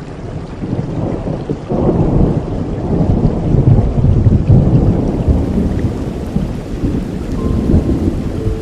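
Thunder rumbling over steady rain, swelling about two seconds in and slowly fading.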